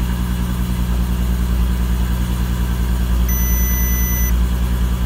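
Audi TT Mk2 engine idling steadily at about 1000 rpm just after starting. About three seconds in, the instrument cluster gives a steady electronic warning beep lasting about a second as an ESP fault warning comes up on its display.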